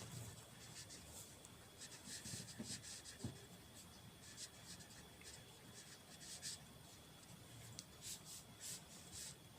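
Faint scratching of a pen writing, in short strokes separated by pauses.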